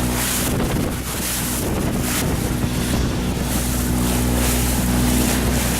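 Boat under way: a steady engine hum with gusts of wind buffeting the microphone and water rushing past the hull.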